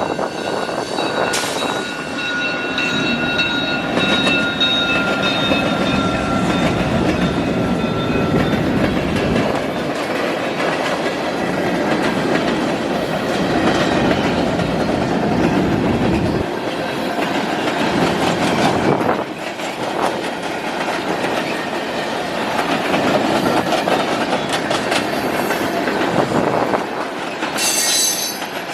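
Freight train rolling past: steel wheels clacking over rail joints under the rumble of the cars. A high ringing tone, falling slightly in pitch, sounds over roughly the first nine seconds, and another brief high squeal comes near the end.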